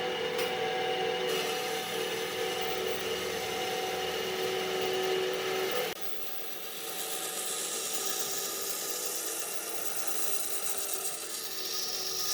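Wood being worked on a power tool, most likely a lathe, with a steady motor hum under the scraping of the cut. About six seconds in the sound changes abruptly to a quieter rasping, scraping sound of wood being shaped.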